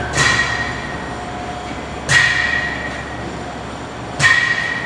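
Three sharp metallic clanks about two seconds apart, each followed by a ringing tone that slowly fades.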